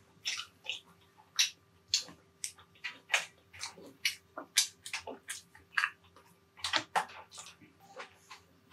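Close-miked chewing and wet mouth smacks of a person eating, a quick uneven series of sharp clicks, about two or three a second.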